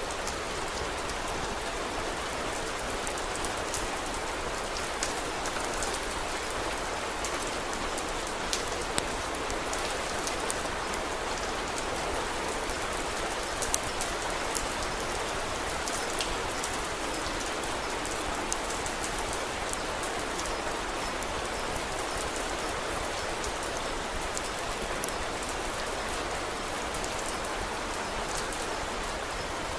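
Steady rain falling, an even hiss, with scattered sharp crackles from a wood fire popping now and then.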